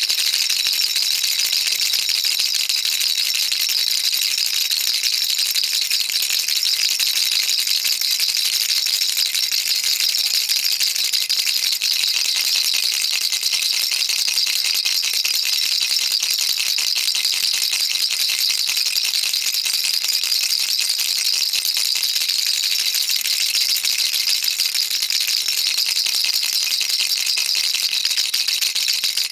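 Baby rattle shaken continuously: a steady, fast, dense patter of small beads clicking inside it, high and hissy, with no pauses.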